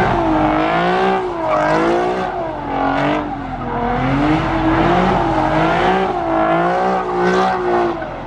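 A car spinning its tires, with a loud, pitched tire squeal wavering up and down about once a second over the engine.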